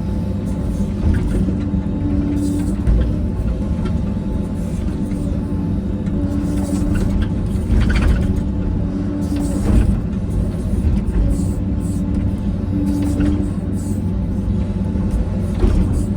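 Heavy diesel engine of an earthmoving machine running steadily, with a few short knocks.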